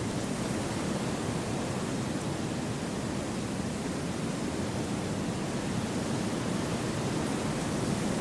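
Steady wind through a forest, heard as an even, smooth hiss that swells only slightly, with no distinct gusts or leaf rustles.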